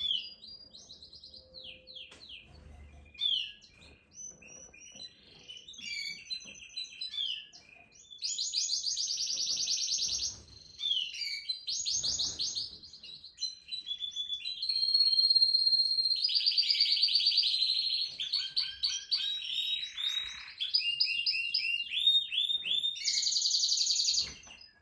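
Domestic canary singing a long, varied song of rapid trills and rolls mixed with whistled notes. The loudest, longest trills come about 8 seconds in, again around 16 to 18 seconds, and near the end, with a single steady held whistle around 15 seconds.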